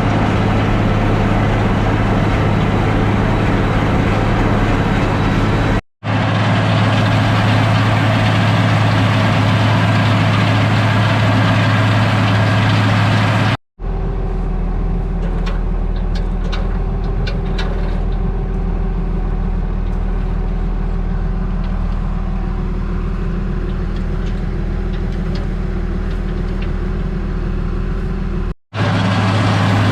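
International 1086 tractor's six-cylinder turbo diesel running steadily under load while cutting hay. The sound breaks off three times for a moment, and after the second break it changes in tone.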